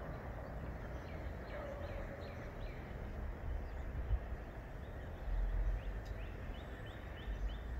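Small birds chirping in short falling notes, with a quick run of repeated chirps near the end, over a steady outdoor rush of background noise and a few low rumbles.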